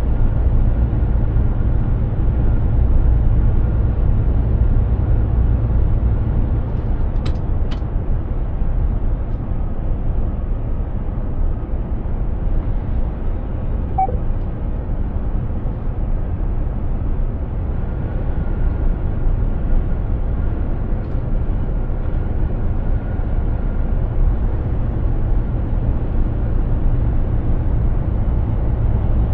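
Mercedes-Benz Actros 2763 truck underway: a steady low drone of engine and road noise. A couple of faint clicks come about seven seconds in, and a short faint beep about halfway through.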